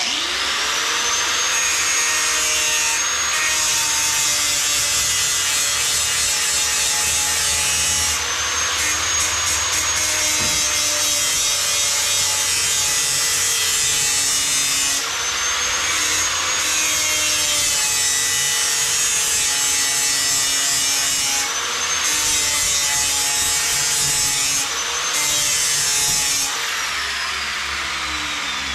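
DeWalt angle grinder running up to speed and grinding the edge of a steel lawn mower blade to sharpen it. Its motor pitch drops and recovers about four times, and near the end it winds down.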